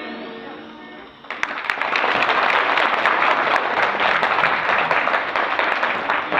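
Dance music fading out on held notes, then, just over a second in, an audience breaks into applause: dense, steady clapping from many hands.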